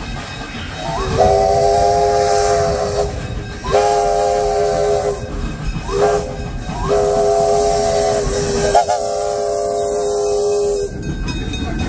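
Narrow-gauge steam locomotive's whistle blowing a series of long blasts, each sliding up in pitch as it starts. Under it the engine keeps up a steady running and hissing noise.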